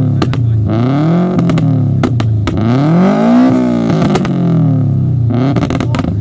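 Turbocharged Subaru Impreza flat-four engine revved up and down again and again, with sharp pops and bangs from its anti-lag system between revs.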